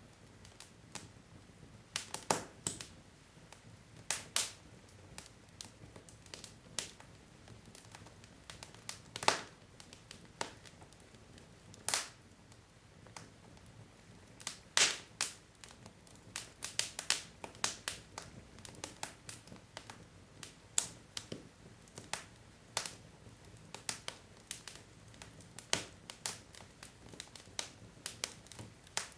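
Burning wood logs crackling in a fireplace: irregular sharp pops and snaps, several a second at times, over a faint low hiss.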